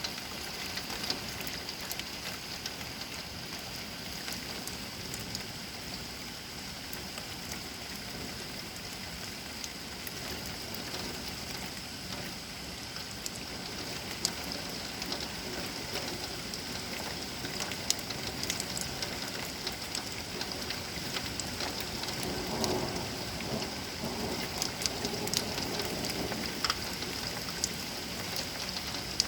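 Steady rain falling during a thunderstorm, with many individual drops ticking and splashing. A low rumble of thunder rises and fades about three-quarters of the way through.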